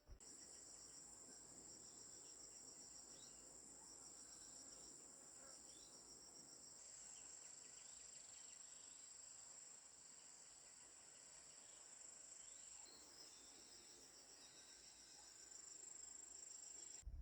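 Insects chirping: a steady, high, pulsing trill with fainter short chirps over it, held at an even low level and cut off abruptly at the end.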